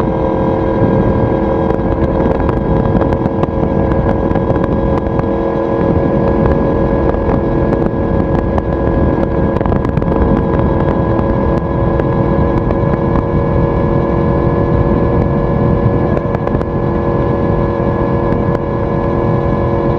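Yamaha YZF-R1 inline-four engine and exhaust running at steady cruising revs, the pitch holding level with no gear changes, over a rush of wind noise.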